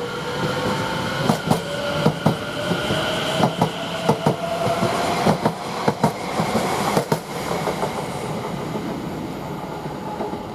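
Greater Anglia Class 720 electric multiple unit pulling out and accelerating: an electric traction whine rises slowly in pitch, with the wheels clacking irregularly over the track. It eases off a little in the last couple of seconds.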